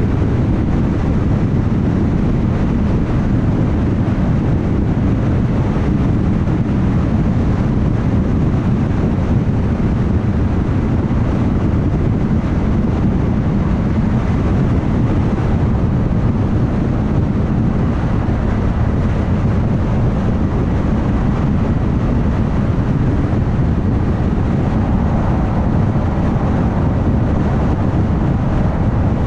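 Steady rumble of a car driving at highway speed: tyre and road noise with engine hum, even throughout with no distinct events.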